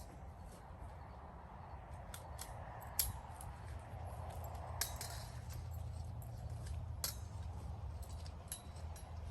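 Scattered sharp clicks and taps, the loudest about three, five and seven seconds in, over a steady low rumble.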